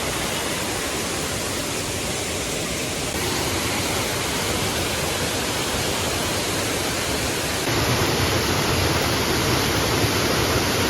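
Steady rushing of water from a waterfall, a dense even roar with no tones or clicks. It gets a little louder about three seconds in and again near eight seconds.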